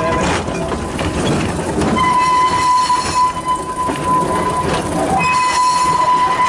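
Garden-railway model train running, with a steady high-pitched tone that comes in about two seconds in, breaks off briefly, and returns near the end.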